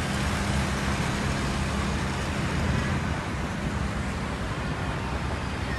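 Hail and heavy rain falling in a steady hiss, over the low hum of an idling vehicle engine that fades out about four seconds in.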